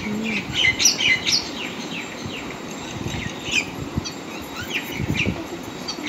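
Small birds chirping, a quick run of short, falling calls about half a second to a second and a half in, then scattered calls through the rest.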